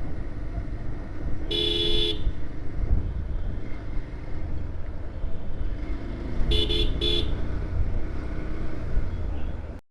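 A vehicle horn sounds once for about half a second, then gives three quick short toots a few seconds later, over the steady low rumble of a motorcycle ride on the road.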